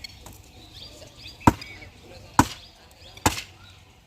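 Axe chopping firewood: three hard blows into the wood, just under a second apart.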